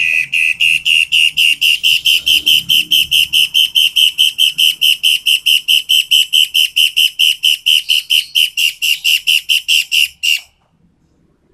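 Toed matahari bird calling: a loud, sharp run of identical high whistled notes, about six a second, kept up for about ten seconds and then stopping abruptly.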